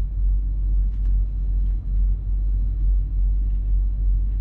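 Steady low rumble of a semi truck.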